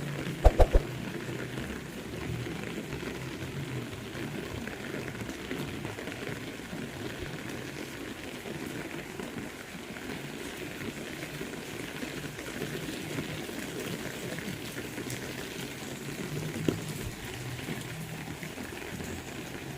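Steady heavy rain falling. Two sharp knocks come just under a second in, and a fainter one near the end.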